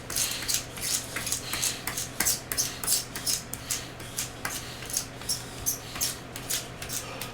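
Pencil sharpener cutting pencils: a quick, irregular run of scraping and clicking strokes, several a second, with pencils knocking and clattering, over a steady low hum.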